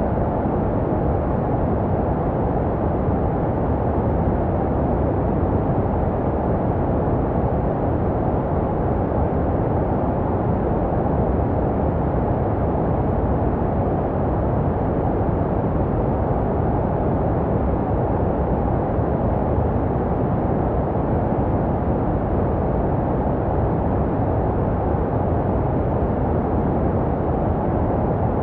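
Continuous sleep noise for babies, steady and unchanging, deep and muffled, with most of its weight low and only a little hiss on top, made to resemble what a baby hears in the womb.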